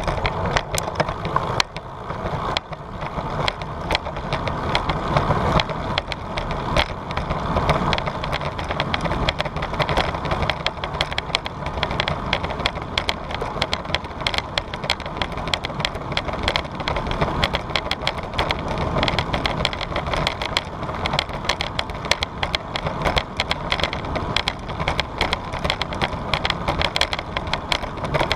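Bicycle riding sounds picked up by a GoPro on the bike: a constant, dense rattle of rapid clicks over a low rumble of wind and tyres.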